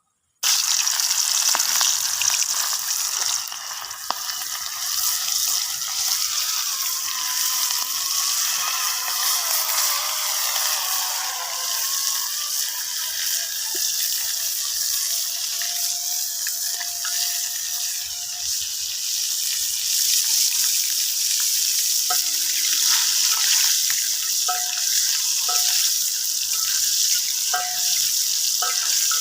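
Food frying in hot oil, a steady sizzle that carries on throughout, with a few short high tones near the end.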